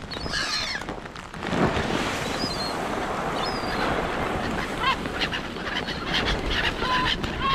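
Short, repeated honking bird calls, starting about five seconds in, over a steady hiss.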